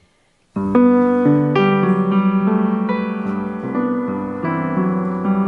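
Piano playing chords and a melody line with sustained, overlapping notes, starting about half a second in after a brief silence.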